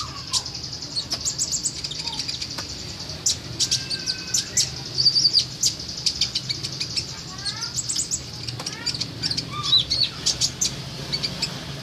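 A songbird singing: a fast run of sharp chirps, short trills and brief whistled glides, over a steady high buzz.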